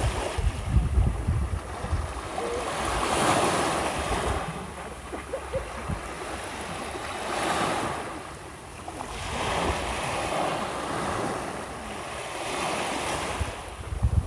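Small waves washing onto the shore, swelling and fading every few seconds. Wind buffets the microphone with low rumbles at the start and again near the end.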